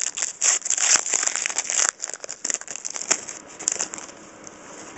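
Foil trading-card pack wrapper being torn open and crinkled, densest for about the first two seconds, then a few scattered crackles before it goes quiet.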